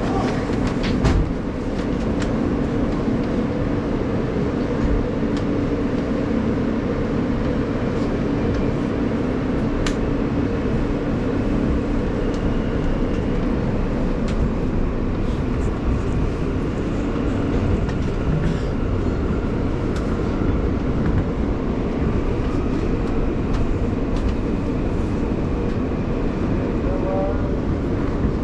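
New York City subway train running between stations, heard from inside the car: a steady loud rumble of wheels on the rails with a hum from the motors through roughly the first half, and a few sharp clicks along the track.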